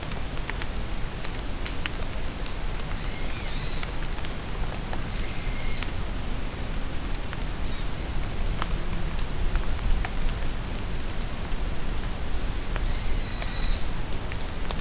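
Steady rain falling in a forest, with separate drops ticking, and a bird giving short high calls three times: about three seconds in, about five seconds in, and near the end.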